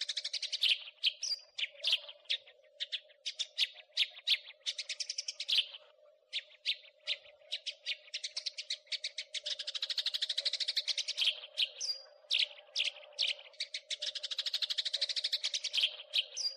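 House sparrow chattering: quick series of sharp chirps broken by long, fast rattling runs of notes, over a faint steady hum.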